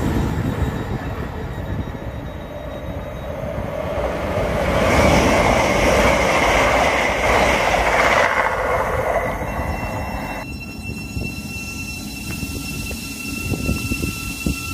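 An electric intercity train passing at speed: a rush of wheel and air noise swells for several seconds and then cuts off abruptly. After that, an electric multiple unit stands at the platform with a steady high-pitched electrical whine over low rumble.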